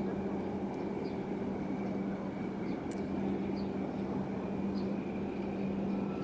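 Steady mechanical drone with a constant low hum and a fainter high steady tone, with a few faint short chirps.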